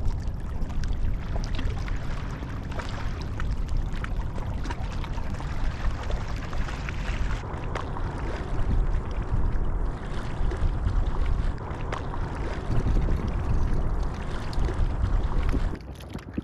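Water sloshing and splashing with many small sharp splashes, under a heavy wind rumble on the microphone.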